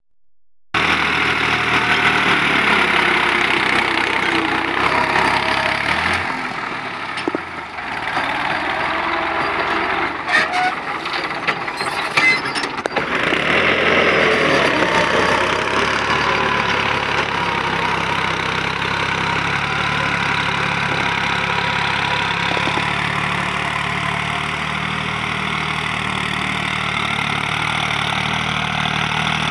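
New Holland TT55 tractor's diesel engine running. Several clicks and knocks come about ten to thirteen seconds in, and the engine's pitch briefly rises and falls before it settles into a steady run.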